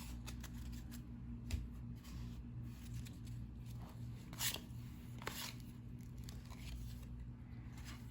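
Cardboard trading cards being flipped through by hand: a few brief papery slides and flicks, the loudest about four and a half seconds in, over a low steady hum.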